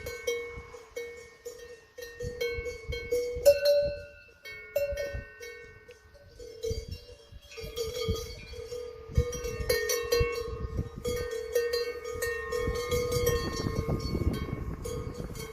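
Several cowbells on grazing cattle clanking irregularly, their strikes overlapping with a ringing metallic tone. A low rumble rises under them near the end.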